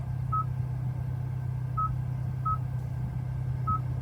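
Short single-pitch confirmation beeps from the Hyundai i20N's infotainment touchscreen as its menu is stepped through, four beeps at uneven intervals, over a steady low cabin hum.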